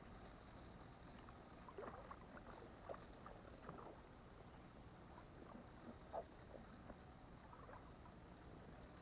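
Faint, scattered water splashes and sloshing of a person wading through shallow water, with a slightly sharper splash about six seconds in.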